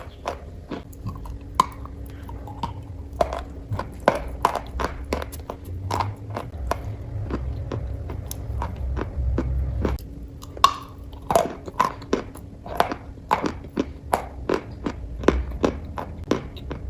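Close-miked crunching and chewing: irregular crisp clicks and crunches, a few a second, over a low rumble.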